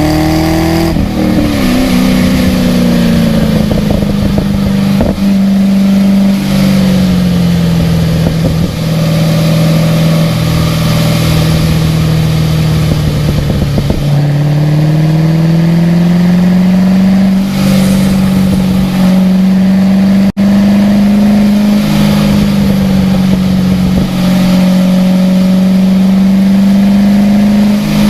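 Car engine running hard at track speed, its pitch dropping at a gear change about a second in, then holding fairly level and climbing slowly midway, over a steady hiss of rain and tyre spray on a very wet track.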